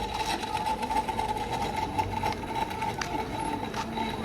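A small machine running with a steady, rapid buzz, with scattered clicks over it.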